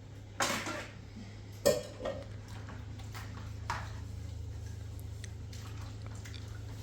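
A few sharp clinks and knocks of pots or dishes being handled, the loudest about a third of the way in, over a steady low hum.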